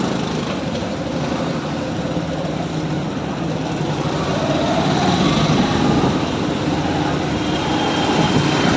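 Motorcycle engine running while riding in city traffic, with heavy wind and road noise; it grows louder about halfway through as the bike picks up speed.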